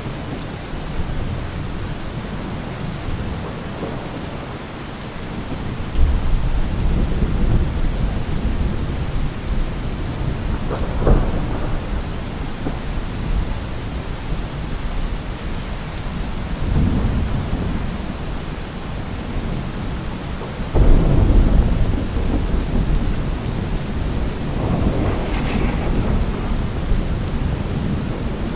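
Thunderstorm: steady heavy rain with rolling thunder. A low rumble breaks in suddenly about six seconds in and another about twenty-one seconds in, with a sharper crack around eleven seconds and further swells later on.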